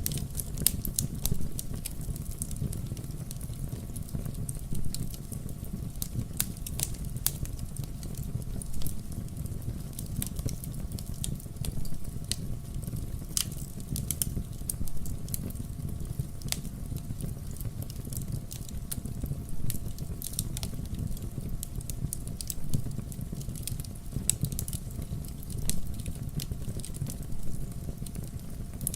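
Wood fire burning in a fireplace: a steady low rumble from the flames with frequent sharp crackles and pops scattered irregularly throughout.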